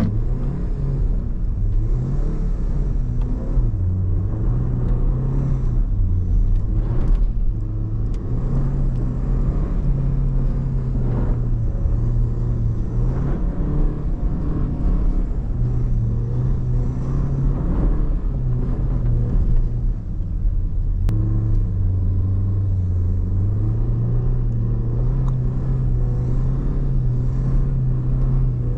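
Tuned Porsche Macan being driven hard in snow: the engine note repeatedly climbs and drops back as the throttle and gears change, over a steady low road and tyre rumble.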